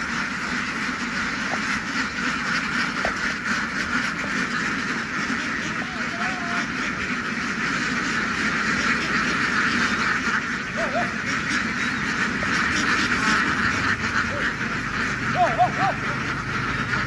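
A large flock of domestic ducks quacking all together in a dense, unbroken chorus.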